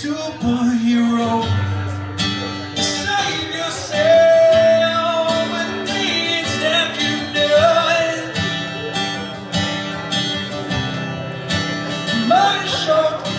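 Song intro: an acoustic guitar playing with a bass line underneath and a held melody line over it, in a country-folk style.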